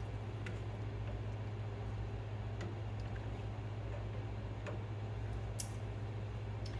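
Sparse, irregular light clicks and taps of kitchen utensils at work over a steady low hum, the sharpest tap near the end.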